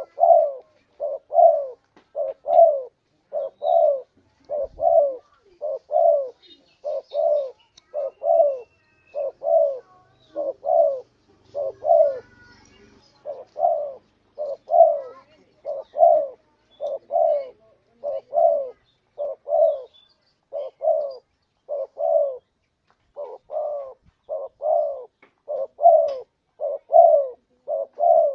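Spotted dove (tekukur) cooing: a continuous series of short, low coos, about two a second, with a brief pause about twelve seconds in. It is the song of a contest-trained bird, used as a lure call for other spotted doves.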